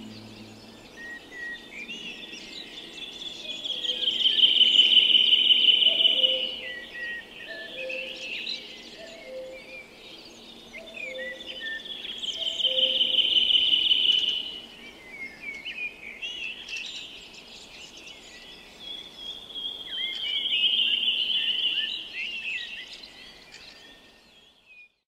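Birdsong: a high trill that swells and fades three times, with scattered chirps in between.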